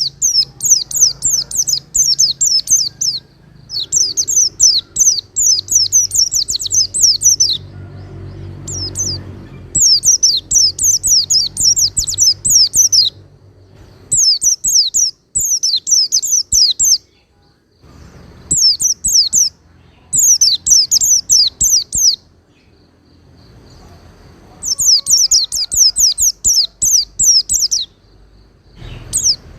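White-eye (pleci) singing: bursts of rapid, high, downward-sliding notes, each burst lasting a few seconds, with short pauses between them.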